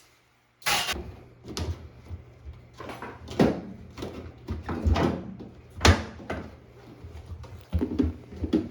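Irregular clunks and knocks, about five of them loud, as panels and parts of a front-loading washing machine are handled and pried off during disassembly.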